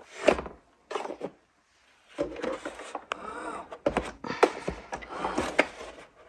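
Handling knocks, clicks and rubbing as a robot vacuum is lifted and set down onto its charging dock, with a brief pitched sound about three seconds in.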